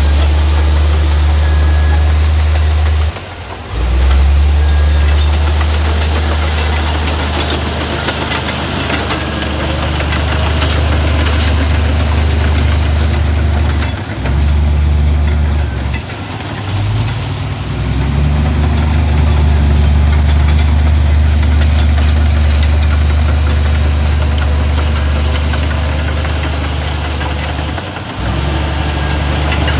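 Crawler bulldozer's diesel engine working steadily with heavy mechanical clatter. Its low engine note drops off briefly a few times, a few seconds in, around the middle and near the end, then comes back.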